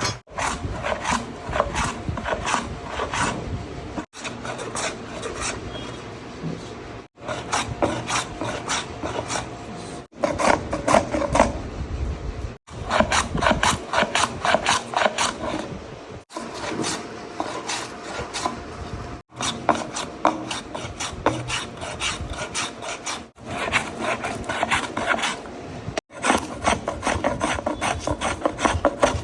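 A hand file rasping wood on a cricket bat during handle fitting, in fast back-and-forth strokes. The strokes come in runs of a few seconds, each broken by a brief silent gap.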